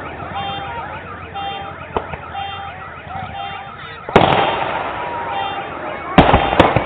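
Aerial fireworks shells bursting: a faint bang about two seconds in, a loud one about four seconds in, and two more close together near the end, the louder bursts followed by a long trailing tail. Behind them a car alarm sounds its warbling cycle over and over, about once a second.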